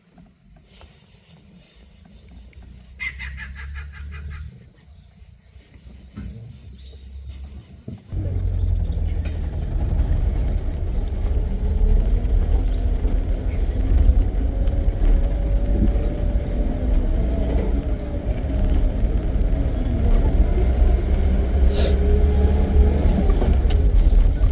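Safari jeep's engine cuts in suddenly about eight seconds in and runs loud as the vehicle drives along a dirt track, with a low rumble and a whine that rises and falls with speed. Before that there is a quiet stretch with a brief burst of rapid chirping.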